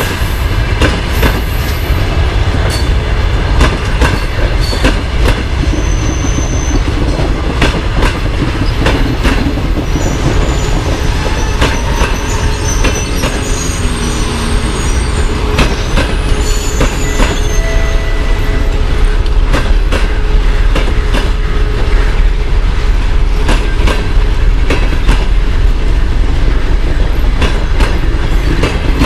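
Passenger train pulling out of a station and rolling past: a steady rumble of coaches, wheels clicking over rail joints, with brief high-pitched wheel squeals here and there.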